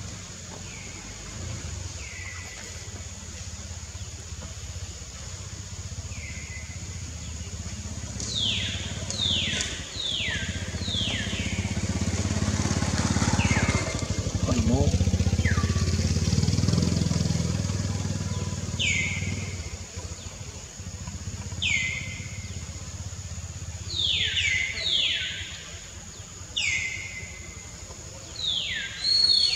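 Birds calling: short notes that sweep down in pitch, several in quick runs of three or four, over a steady high insect whine. A low rumble swells and fades in the middle.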